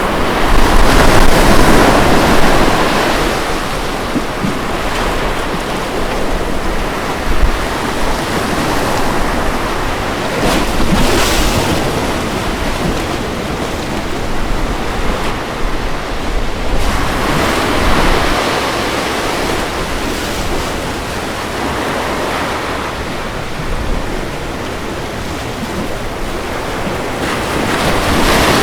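Ocean waves breaking on a beach in a steady wash of surf that swells and eases, with stronger surges near the start, about a third of the way in, past the middle and near the end. Some wind noise on the microphone.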